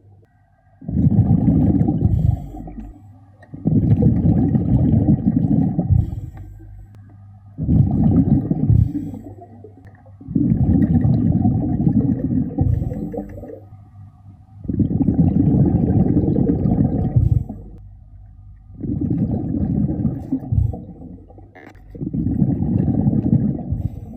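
A scuba diver's exhaled air bubbling out of the regulator underwater, in a regular breathing rhythm. It comes as about seven loud bursts of bubbling, each two to three seconds long, with quieter pauses for the inhales between them.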